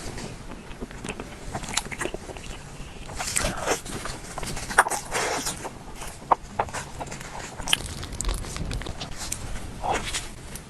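Close-miked chewing and wet mouth sounds of someone eating a soft cream-filled peach mochi, with irregular small clicks and smacks.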